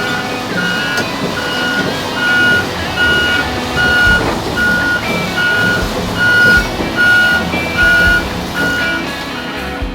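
A heavy machine's back-up alarm beeping steadily, about one beep every 0.6 seconds over a low diesel engine running, stopping near the end.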